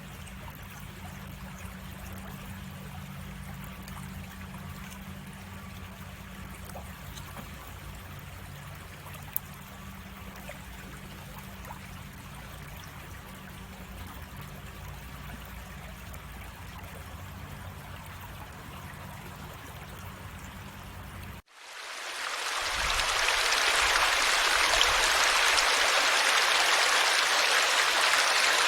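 A stream of water trickling and running, with a steady low hum beneath it. About 21 seconds in it cuts off and a much louder, even rush of water fades in.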